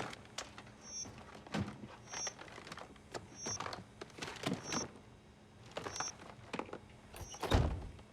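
Short high electronic beeps repeating about every second and a bit, over scattered knocks and rustling, with one heavy low thud near the end.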